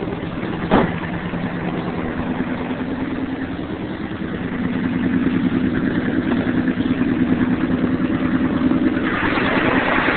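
Engine idling after a cold start on a frosty morning, running steadily, with a single sharp click about a second in. It gets louder about halfway through.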